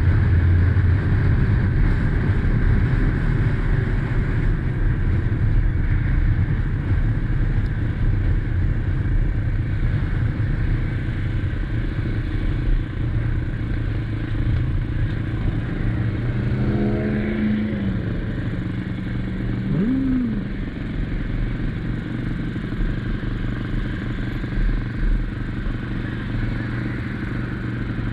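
2021 SSR XF250 motorcycle's engine running steadily while under way, a little quieter in the second half.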